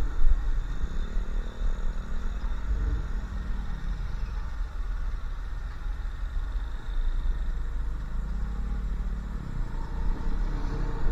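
Motorcycle engine running under way, its pitch climbing and falling twice, about a second in and again near the eight-second mark, over a heavy low wind rumble on the microphone.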